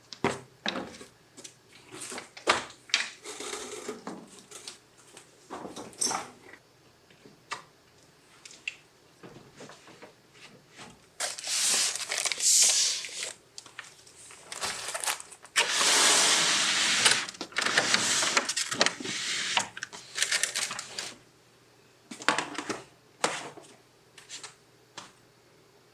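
Things being handled close by: scattered clicks and taps, with two longer stretches of rustling about eleven and sixteen seconds in.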